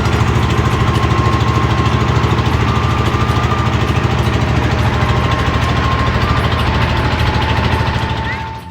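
Boat engine running steadily at close range, with a fast, even chugging beat; it fades out near the end.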